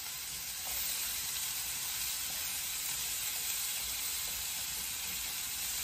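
Mushrooms and mixed vegetables sizzling steadily in a hot skillet on high heat as they are stir-fried.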